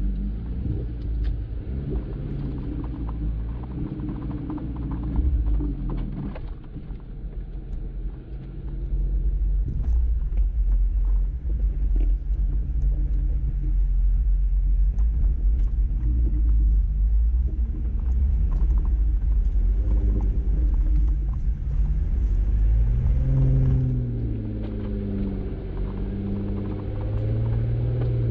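Jeep Wrangler Rubicon driving a dirt trail: a steady low rumble of engine and drivetrain. In the last few seconds the engine pitch rises and falls as it is throttled up and back.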